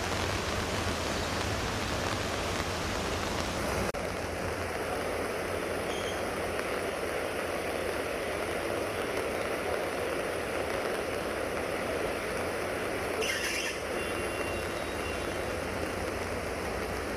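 Heavy rain and floodwater rushing along a street, a steady wash of noise. A brief higher-pitched sound cuts through about 13 seconds in.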